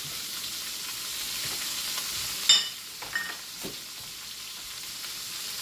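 Chicken pieces sizzling steadily as they fry in a cast-iron skillet. About halfway through, a sharp metallic clink rings out, followed by a couple of lighter knocks.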